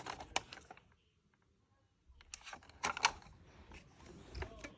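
Scattered sharp clicks and light knocks of handling noise, with a second of dead silence about a second in and a low thump near the end.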